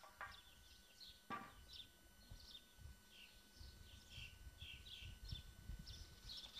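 Faint birdsong, many short high chirps over a quiet outdoor background, with a single sharp wooden knock a little over a second in.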